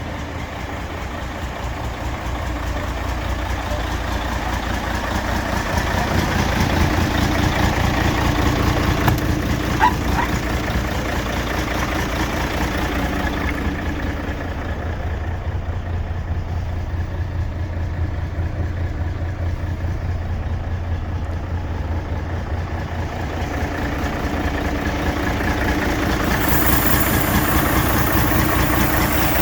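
Mercedes-Benz 4143 8x4 tipper truck's diesel engine idling steadily, swelling a little in level twice, with a small click about ten seconds in.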